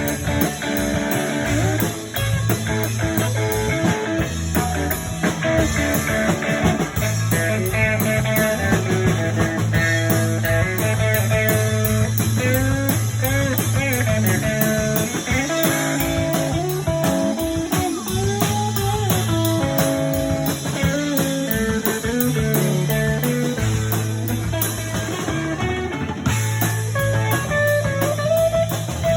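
Instrumental blues music led by guitar, with notes bent upward and back about halfway through, over a steady rhythm.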